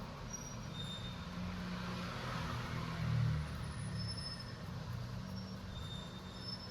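Low, steady rumble of road traffic, with a vehicle swelling briefly about three seconds in.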